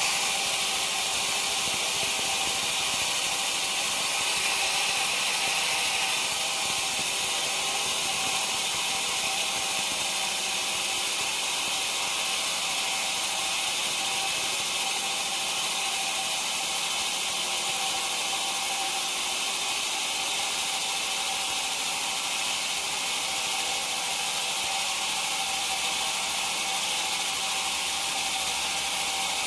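Sawmill saw running steadily: an even high hiss with a faint steady whine underneath.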